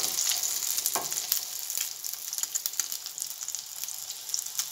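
Egg-coated chicken patty sizzling in shallow oil in a frying pan, a steady hiss with many small crackling pops. Two sharper clicks come at the start and about a second in.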